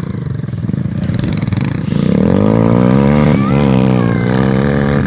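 A dirt bike engine passing close. It grows louder and rises in pitch about two seconds in, then revs up and down as it goes by.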